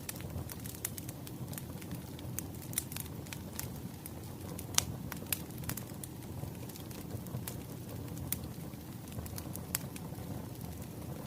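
Burning firewood crackling: irregular sharp pops and snaps over a low, steady rumble of the fire, with the loudest pop a little under five seconds in.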